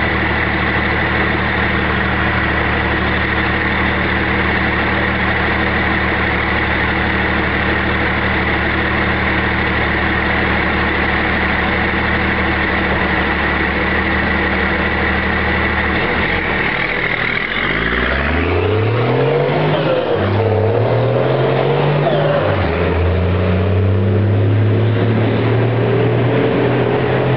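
Straight-piped Cummins turbo diesel truck engine idling steadily with a steady high whine, then revved up several times in the last third, its pitch climbing with each rev.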